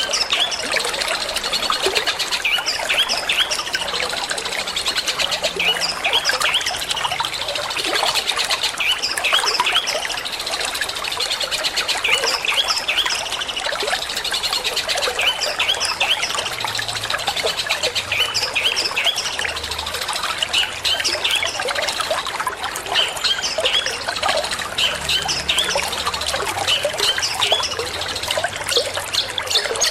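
Long-tailed shrike (cendet) singing a fast stream of short chattering notes, 'petir' style, over continuous trickling water.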